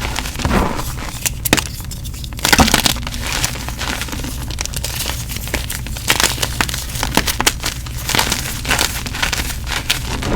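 Gym chalk being crushed and crumbled: an irregular run of crunches and crackles, densest about two and a half seconds in.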